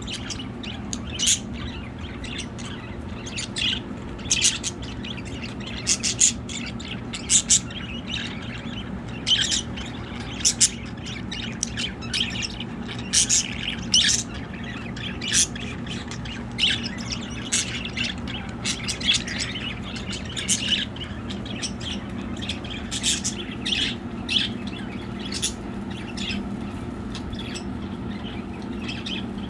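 Flock of pet budgerigars chirping and squawking, many short sharp calls scattered throughout, over a steady low hum.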